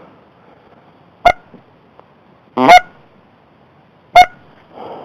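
Goose honking: three loud, short honks about a second and a half apart, the middle one longer with its pitch rising.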